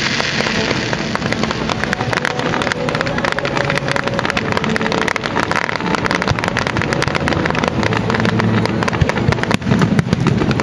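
Fireworks going off: a dense, unbroken crackling of many rapid small pops from spark fountains and bursting shells, over a low steady rumble.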